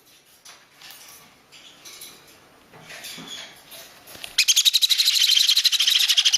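Baby parrot chicks chirping faintly, then from about four seconds in a loud, very rapid pulsing begging call at feeding time that cuts off suddenly.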